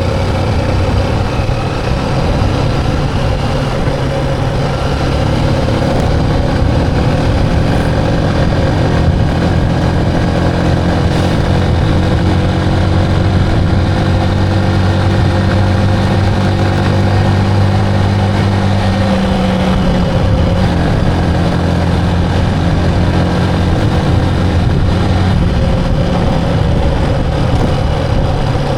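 Motorcycle engine running steadily while riding, its pitch drifting slightly up and down.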